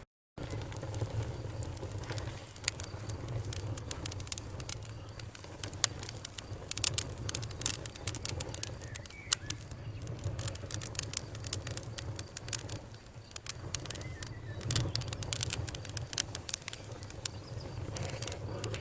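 Campfire crackling and popping in irregular sharp snaps over a steady low rumble, the pops coming thickest about six to ten seconds in and again near fifteen seconds. The sound drops out for a split second at the very start.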